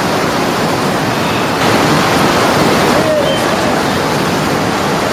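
Steady, loud rush of falling and running water from a waterfall and canyon stream.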